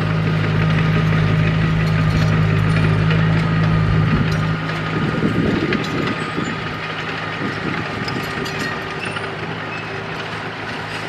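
Bulldozer's diesel engine running with a steady low drone. A little over four seconds in the drone drops away into a rougher, noisier stretch, and the engine then runs on more quietly.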